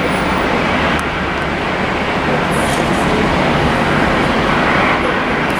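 Steady jet engine noise from an airliner at the airport, mixed with wind on the microphone.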